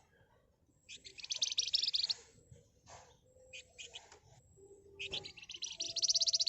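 Flamboyan (wergan Jawa) songbird singing in dense, rapid buzzing trills ('ngebren rapat'). One long trill comes about a second in and another near the end, with short chirps between them.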